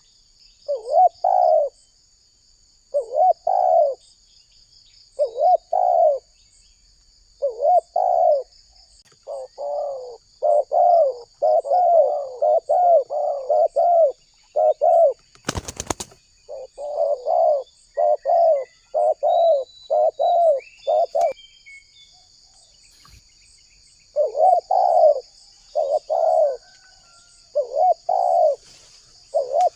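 Spotted dove (tekukur) cooing over and over in short phrases, in bouts that speed into a fast run of coos in the middle. Its song is broken by a sharp click about halfway and a short pause near the end. A steady high-pitched drone runs behind it.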